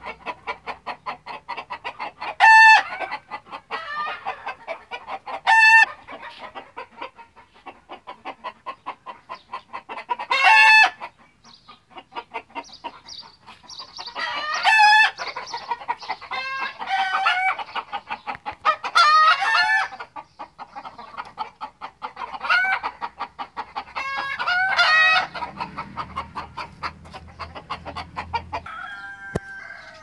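Birds calling: loud drawn-out calls come every two to four seconds over a fast, steady run of short notes.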